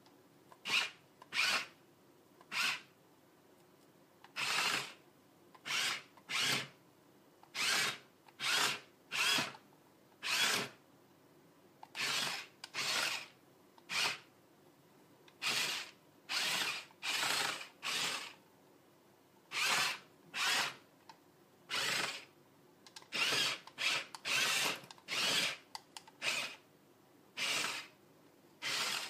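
Fisher-Price remote control dump truck's small electric motor whirring in short bursts, each under a second, starting and stopping over and over as the remote's buttons are pressed.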